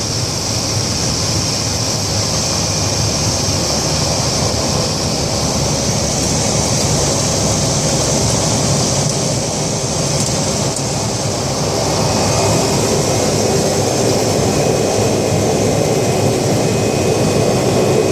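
A Cessna Caravan's Pratt & Whitney PT6A turboprop engine and propeller running steadily, heard from inside the cockpit. About two-thirds of the way through the sound gets a little louder and a steady whine comes in.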